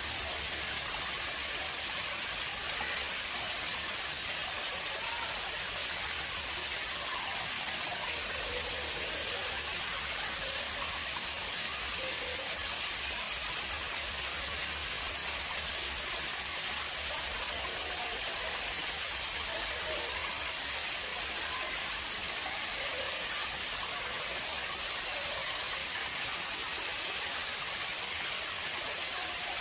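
Water flowing and splashing steadily into an artificial pond, an even rushing hiss with no let-up.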